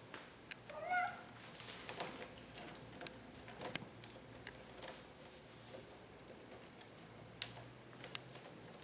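One short, high, arching vocal call about a second in, with light clicks and taps scattered throughout.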